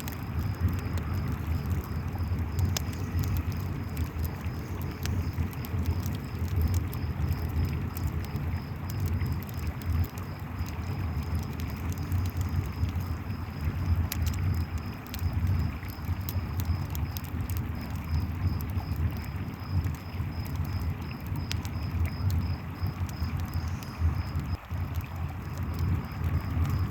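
Campfire flames crackling in scattered sharp pops over the steady rush of a river, with crickets chirping in an even, rapid pulse throughout.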